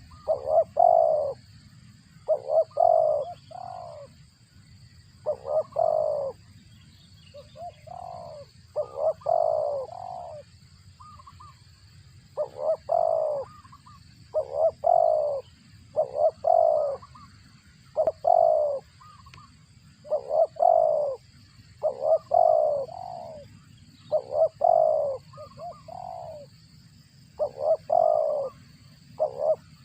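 Spotted dove cooing: a short phrase of a few low coo notes, repeated about every two seconds.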